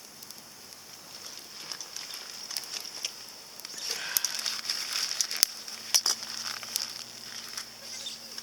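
Small wood fire crackling inside a compact titanium fire grill, with sharp pops and snaps that come thicker and louder about halfway through.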